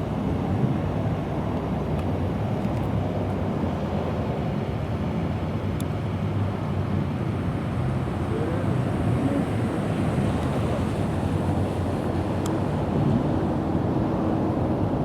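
Car engines running at low revs: a steady low rumble.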